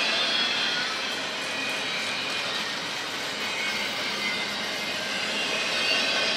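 Double-stack intermodal freight train's well cars rolling past close by: steady rumble and rattle of steel wheels on rail.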